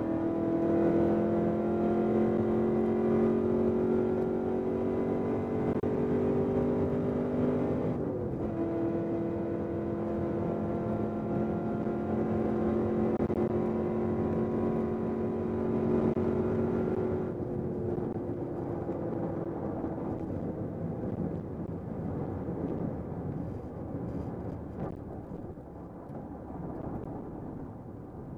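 2010 Chevrolet Camaro engine heard from inside the cabin under full throttle at high speed, its pitch climbing slowly. It drops once, about eight seconds in, at an upshift, and climbs again until the throttle is lifted about seventeen seconds in. After that the engine tone fades into wind and tyre noise that grows quieter as the car slows.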